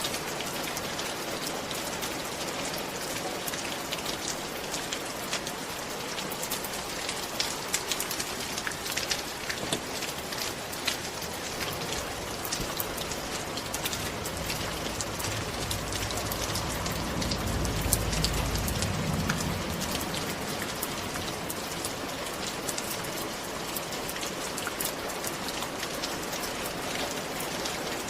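Steady rain falling on a surface, with many distinct drops ticking through it. Around the middle a low rumble swells and fades over several seconds.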